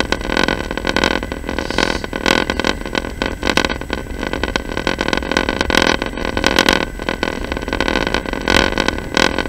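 Passenger train running, heard from inside the carriage: a steady rolling noise with frequent irregular knocks and rattles, over a steady high whine.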